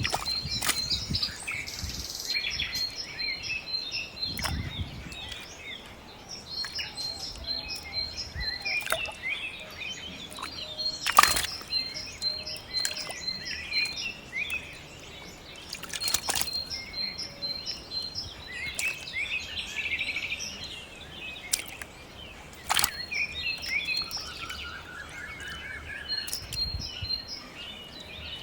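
Small birds chirping over and over in short, quick notes, with a rising run of notes a little before the end. A few sharp clicks cut through, the loudest about a third of the way in.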